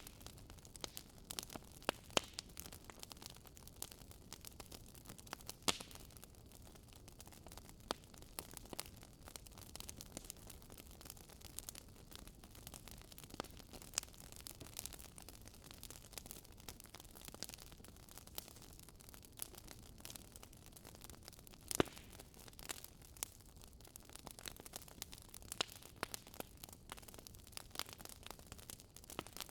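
Wood fire burning in a fireplace: constant irregular crackling, small snaps and pops over a faint hiss, with a few louder pops now and then, the loudest about 22 seconds in.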